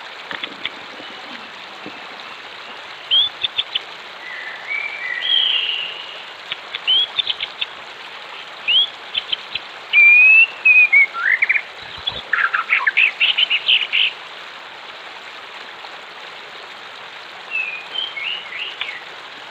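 Wild songbirds chirping, trilling and whistling in scattered bursts over a steady rush of running water. The calls are busiest around the middle and thin out before a few more near the end.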